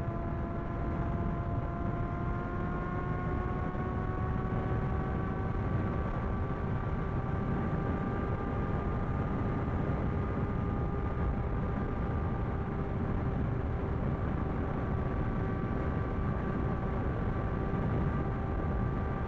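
A sport motorcycle's engine running at a steady cruise, its pitch rising slowly over the first several seconds and then holding, under heavy wind rush on the microphone.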